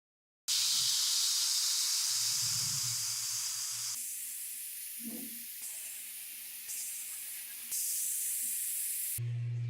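Loud, steady hiss of a compressed-air spray or blast, cut into several pieces so that its tone changes abruptly a few times. A steady low hum comes in near the end.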